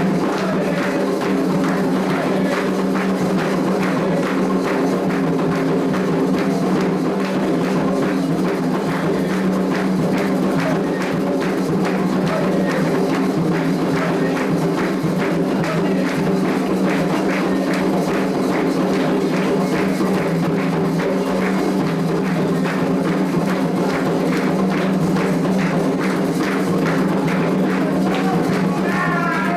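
Candomblé ritual music: hand drums and percussion playing a steady, driving rhythm over sustained tones.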